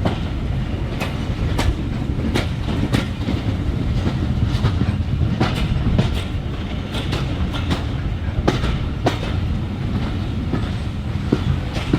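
Train running along the track: a steady low rumble with irregular clicks of wheels passing over rail joints.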